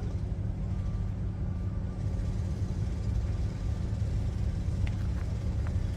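Steady low rumble with no clear beat or change in level.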